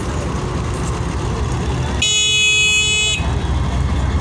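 Train horn sounding one steady blast of about a second, about halfway through, over a continuous low rumble at a railway level crossing.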